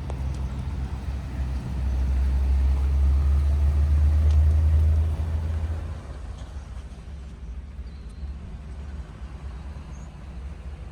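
Pickup truck engine idling, a steady low rumble that drops off sharply about six seconds in.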